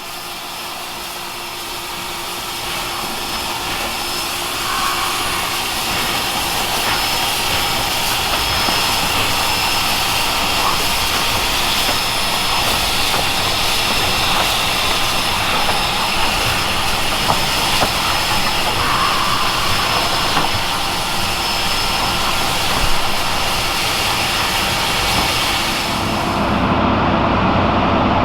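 Steam locomotive hissing loudly as it vents steam, building up over the first few seconds. The high hiss cuts off abruptly near the end, leaving a lower rumble.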